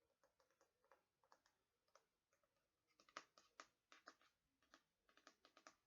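Soft, quick, irregular clicks and taps from a hairbrush being handled and tapped, in runs of several clicks with short pauses between.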